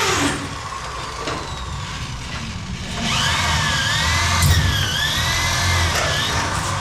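Electric drill boring holes for rivets through fibre-cement Hardiflex ceiling board. The motor whine cuts off just after the start, then runs again from about three seconds in, its pitch dipping and recovering several times as the bit bites.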